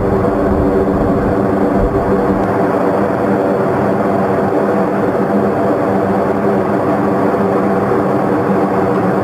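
Military transport aircraft engines running, a loud steady drone with several held tones over a rushing noise; the deepest rumble drops away about two and a half seconds in.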